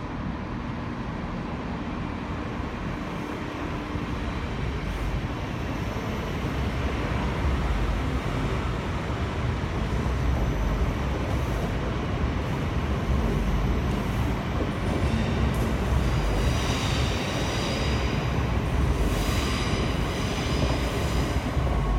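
Two coupled ScotRail Class 334 electric multiple units rolling slowly into the platform: a steady rumble of wheels and running gear that grows louder as the train comes alongside. A high squeal joins in over the last several seconds.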